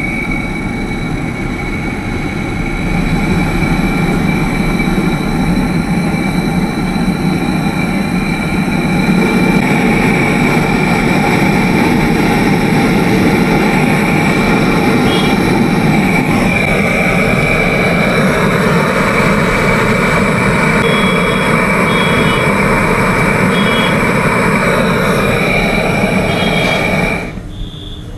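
A small electric pump running steadily on the fridge's refrigeration line, a motor hum with a constant high whine. Its sound changes about two-thirds of the way through, and it is switched off abruptly just before the end.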